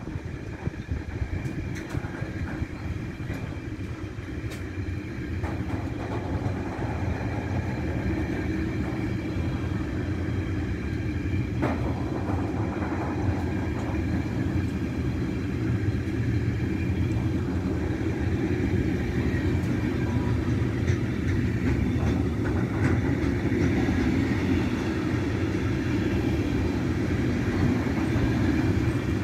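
Freight train rolling past on the track: a continuous rumble of wheels and wagons that grows gradually louder, with a few steady higher tones over it.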